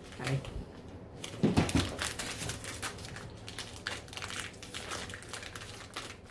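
Plastic snack wrappers crinkling and rustling as they are handled, a run of quick irregular crackles.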